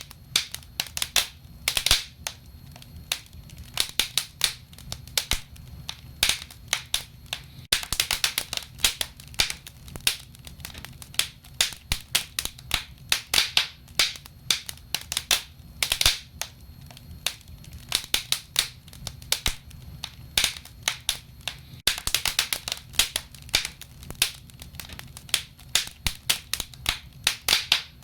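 Wood fire crackling and popping: a dense, irregular run of sharp snaps from the burning logs over a steady low rumble of the flames.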